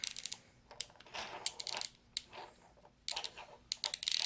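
Irregular small clicks, taps and crackling as a battery adhesive strip is wound around a tool and pulled out from under an iPhone SE battery, with the densest run of clicks near the end.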